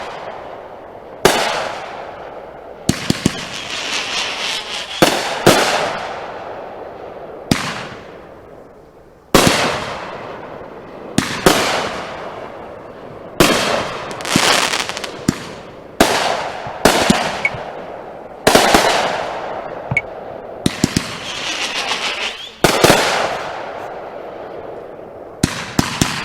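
Aerial fireworks going off in a steady string: a loud bang about every one to two seconds, each trailing off in a fading crackle.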